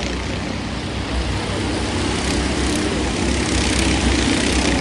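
Racing engines running at speed, a steady drone that grows a little louder from about a second in.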